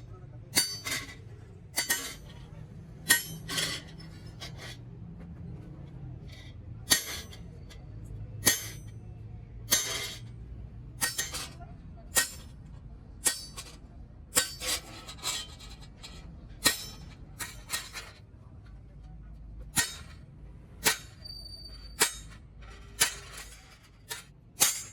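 Hammer blows on sheet metal, about one a second and sometimes in quick pairs, each ringing briefly, over a low steady hum.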